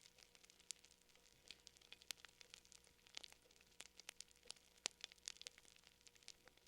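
Faint fire crackling: irregular small pops and snaps, a few to several a second, over a soft hiss.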